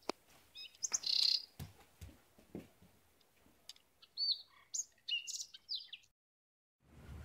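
Birds chirping, short high calls that swoop up and down in clusters, with a few soft low knocks between them. The sound drops out to silence for under a second just after six seconds in, and a low steady rumble comes in near the end.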